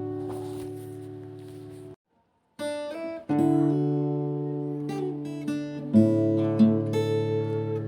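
Background music of acoustic guitar chords ringing out and being strummed. It cuts to dead silence for about half a second about two seconds in, then picks up again.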